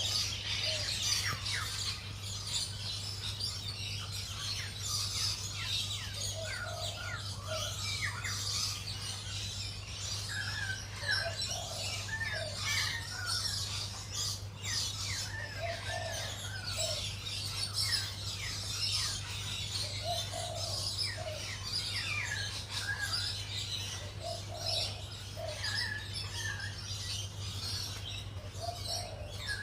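Several birds chirping and calling in quick short notes, with a low two-note call repeating every four or five seconds. A steady low hum runs underneath.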